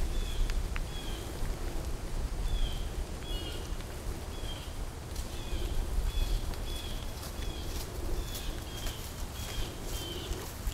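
A small bird calling over and over, a short falling chirp about twice a second, over a low rumble. Faint crackling in dry leaves comes in during the second half.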